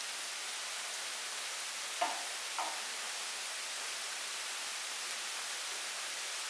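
Steady rain falling, an even hiss. Two short sounds about two seconds in stand out briefly above it.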